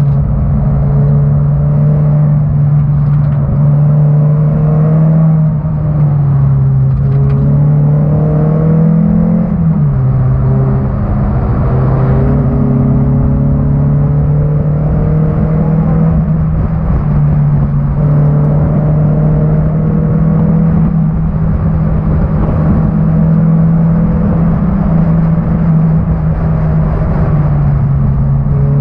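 1991 Honda Accord's four-cylinder engine running hard under racing load, its note climbing slowly and falling back several times as the car accelerates, lifts and shifts, over a steady low rumble of road noise.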